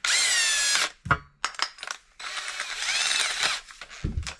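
Power drill run in two short bursts, about two seconds apart, the motor pitch dropping under load in the first and rising then falling in the second, while the homesteader tries to drill out the roof-stack opening in a cramped space. Sharp knocks and clicks between the bursts.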